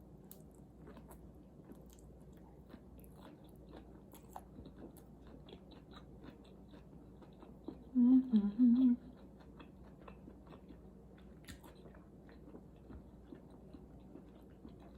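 Faint chewing and small wet mouth clicks of someone eating marinated shrimp, with a short hummed "mmm" about eight seconds in.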